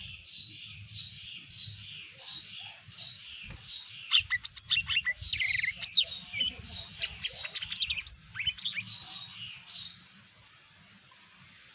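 Lesser green leafbird (cucak ijo mini) singing: first a run of short repeated high notes, then about four seconds in a louder burst of rapid, varied sharp notes and sweeps, fading down near the end.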